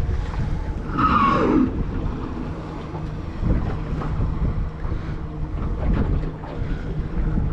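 Wind buffeting the microphone on a small open boat, over water sounds. About a second in there is a brief falling squeal, and a faint low steady hum runs through much of the second half.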